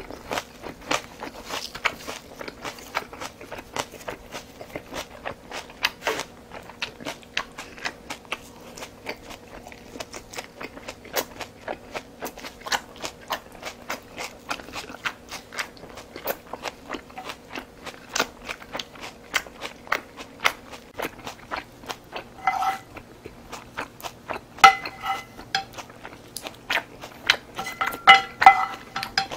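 Close-up eating: chewing with a steady stream of short, wet clicks. Near the end, a few ringing clinks of utensils against the dishes and pot.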